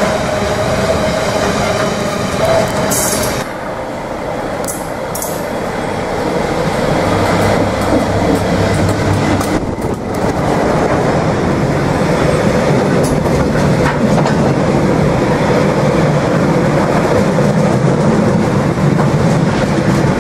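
Freight trains passing close by. First a container train's flat wagons roll past. Then a diesel locomotive goes by with its engine hum, followed by a long rake of aggregate hopper wagons rumbling steadily over the rails.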